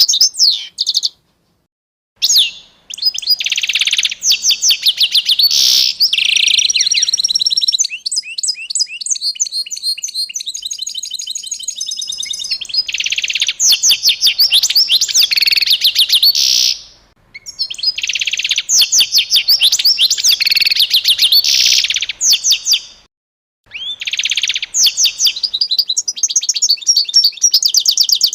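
A songbird singing long, high-pitched phrases of fast repeated chirps and trills, with short pauses between phrases.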